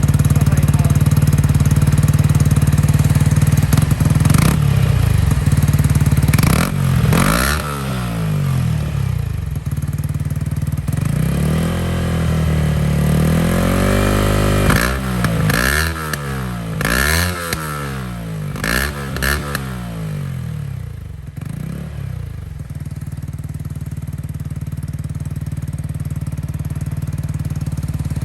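Yamaha MT-125's single-cylinder four-stroke engine through a Scorpion full-system exhaust with the baffle fitted, idling, then revved: one long rev held for a couple of seconds, then a quick run of about five short throttle blips, before settling back to a steady idle for the last several seconds.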